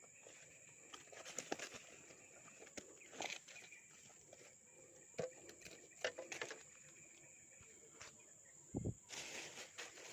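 Outdoor ambience: a steady high-pitched insect drone with scattered rustles and clicks of handling or movement. A low thump comes near the end, followed by louder rustling.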